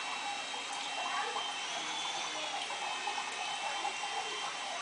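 Small electric RC helicopter in flight: a steady whirring hiss of the rotors with a thin high motor whine that drifts up and down in pitch as the throttle changes.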